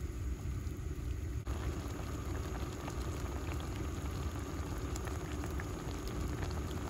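Rice pilaf simmering in a camp cook pot over a flame: steady bubbling, with a low rumble underneath.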